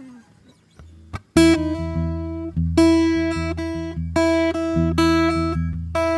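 Solo acoustic guitar, fingerpicked: after a short pause, plucked notes over a bass line start about a second and a half in, with one high note repeated over them.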